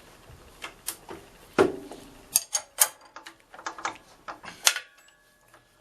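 Irregular metallic clicks, clinks and knocks of tools and metal parts being handled at a machine, with one louder knock about one and a half seconds in and a quick run of clicks in the middle.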